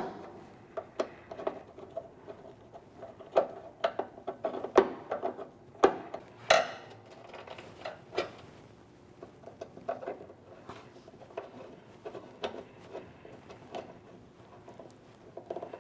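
Irregular clicks, taps and light metallic knocks from wire leads and a screwdriver being worked into the terminal block inside an electric heater's open sheet-metal housing. The strongest knocks come about six and a half seconds in and near the end.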